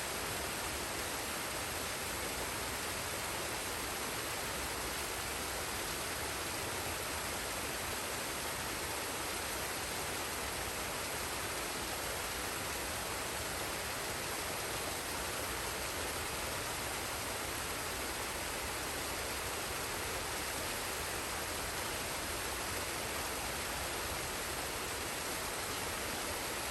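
Forest waterfall and stream rushing: a steady, even roar of falling water that does not change.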